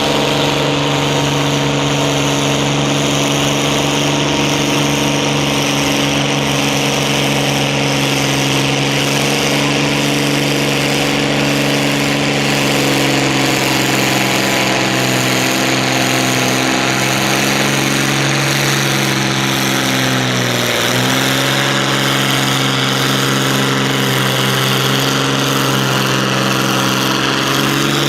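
Oliver 1655 tractor's diesel engine running steadily and loud under load, pulling the sled. About twenty seconds in its pitch sags briefly, as if it is bogging, then picks back up.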